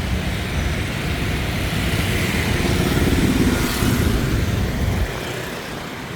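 Motorbike and car traffic going by on a busy street, swelling as a vehicle passes close about halfway through and easing off near the end.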